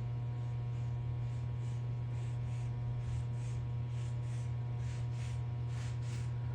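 A steady low electrical hum with faint, soft hissing swishes over it.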